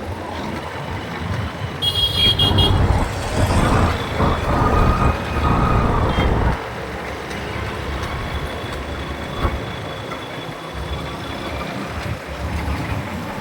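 Road traffic heard from a moving motorbike: a steady low rumble, heavier for the first few seconds and easing off about six and a half seconds in. A vehicle horn gives one short toot about two seconds in.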